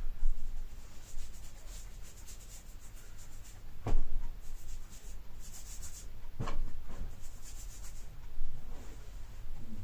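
Small paintbrush making quick, light, scratchy strokes while touching up paint on a plastic toy, with two sharp knocks about four and six and a half seconds in.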